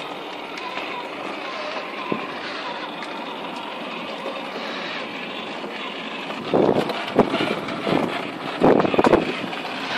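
Built-in sound effects played through a toy vehicle's small speaker: a steady rushing noise, then louder, irregular bursts from about six and a half seconds in.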